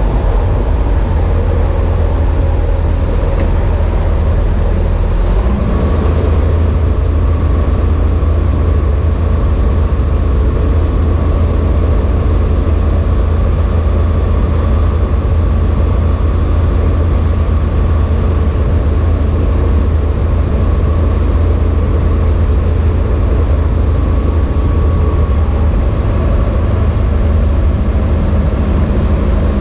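Engine and propeller of an Evektor EuroStar EV-97 light aircraft running steadily, a loud low drone. About five seconds in the drone shifts slightly and a faint steady whine comes in.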